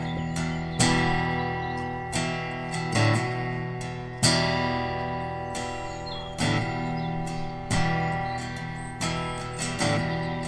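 Background music: acoustic guitar strumming sustained chords, about one strum every second or so.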